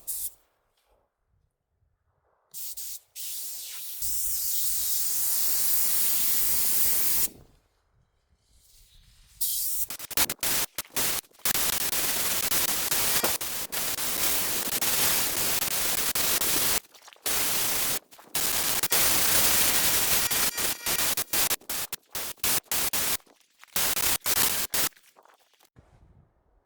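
Paint being sprayed, a hissing spray that comes in on-and-off passes of one to several seconds, with short breaks between them.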